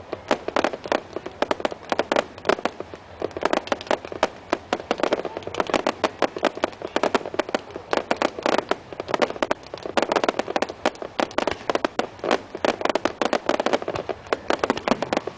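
Fireworks bursting in a dense, unbroken run of bangs and crackling pops, many a second.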